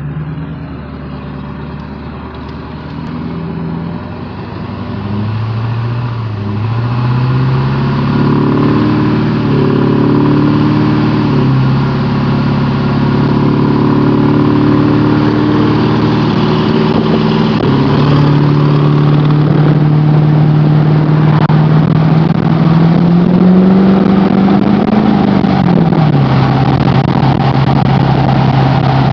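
LB7 Duramax 6.6-litre V8 turbodiesel running under load, its engine note rising and dropping back in steps, with a thin high turbocharger whistle climbing slowly through the middle, made louder by an aftermarket WC Fab intake horn and intake. Wind noise on the microphone.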